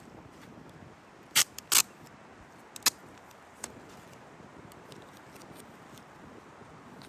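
Steady hiss of rain, broken by a few sharp clicks and rattles from outdoor gear being handled: two loud ones about a second and a half in, one a second later, and a faint one after that.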